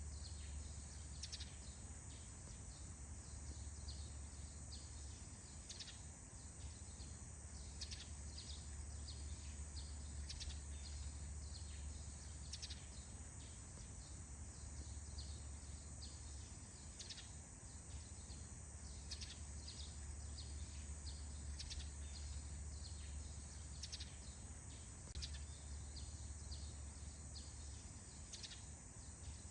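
Forest ambience: a steady high insect buzz with short bird chirps every second or so, over a low steady rumble.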